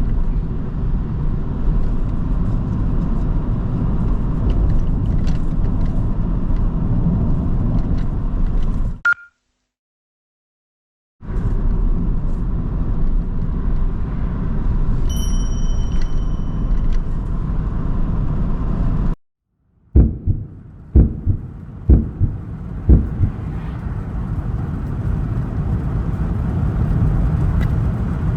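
A car driving, with a steady low road-and-engine rumble. The rumble cuts out twice, and a few sharp knocks follow the second gap before the rumble returns.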